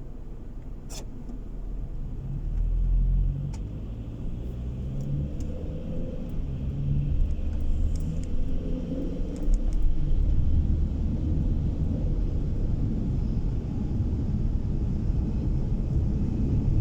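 A car driving on the road, heard from inside the cabin: a low engine rumble and road noise that grow louder over the first few seconds, with the engine pitch shifting as it accelerates. A couple of sharp clicks come about one and three and a half seconds in.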